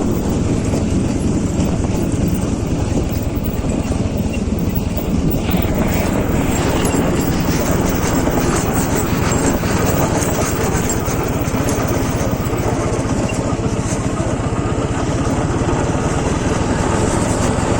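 Motorcycle engine running steadily under way on a rough track, with more hiss and rattle joining about five seconds in.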